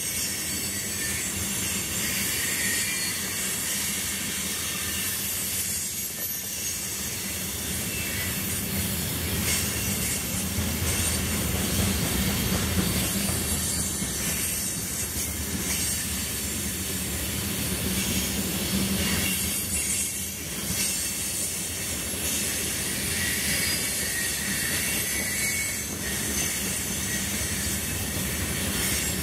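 CSX freight train of tank cars and covered hoppers rolling past close by: a steady, unbroken noise of steel wheels running on the rails, with a strong high-pitched hiss.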